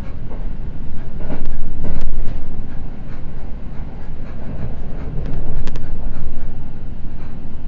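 Seibu Red Arrow limited express running at speed, heard inside the passenger car: a steady low rumble of wheels on track, with a few sharp clicks. The rumble swells twice, about a second and a half in and again about five seconds in.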